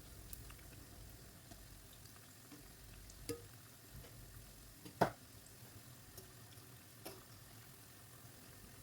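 Bread-and-potato snacks deep-frying in hot oil: a faint steady sizzle with scattered light crackles, and one sharper knock about five seconds in.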